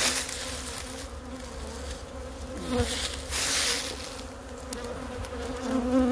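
Honey bees stirred up around an opened hive, buzzing steadily, with single bees flying close past so their buzz slides in pitch. A short rush of noise about three seconds in.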